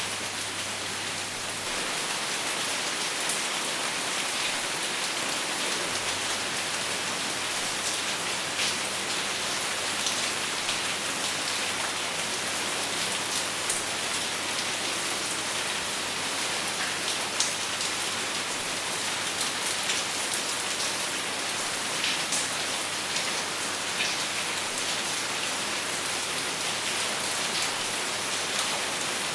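Steady rain falling, an even hiss with scattered sharper drop ticks and no thunder.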